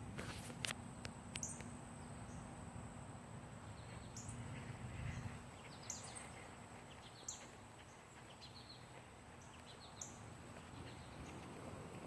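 Outdoor ambience: a bird chirping about once a second over a steady high insect drone. A low rumble underneath swells about five seconds in.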